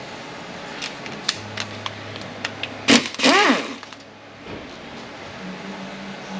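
Metal hand tools clicking and tapping on a transmission case, then a sharp hit and a cordless power tool spinning up and winding down for about half a second, a little before the middle, as a speed-sensor bolt is backed out with a Torx bit.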